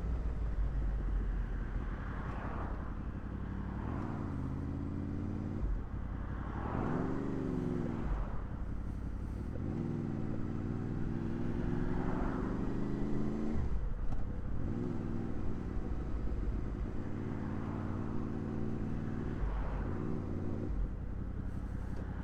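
Honda VFR800's V4 engine pulling as the motorcycle is ridden, rising and falling in pitch over several pulls with short breaks between them. A steady low wind rumble on the microphone runs underneath.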